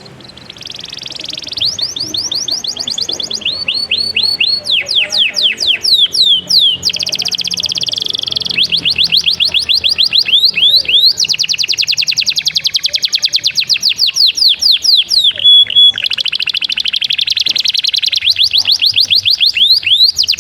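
Domestic canary singing a long, unbroken song: rapid series of repeated high notes, falling sweeps alternating with fast trills, switching to a new phrase every second or two.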